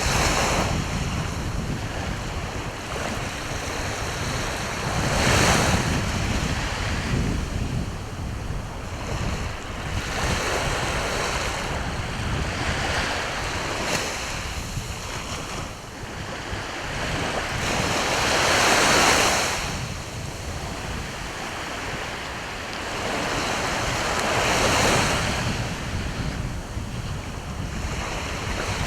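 Sea waves breaking and washing ashore, the surf swelling up and falling away every five to six seconds, loudest a little past the middle. Wind buffets the microphone underneath as a low rumble.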